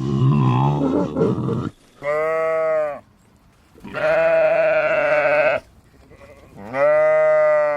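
Livestock bleating: a rough, lower call to start, then three long, steady bleats with short silent gaps between them.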